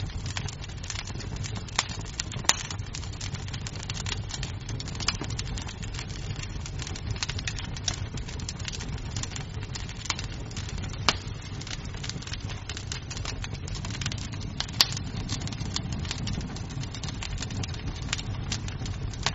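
Wood fire crackling in a fireplace: a dense run of small snaps over a low steady rumble, with three louder pops standing out.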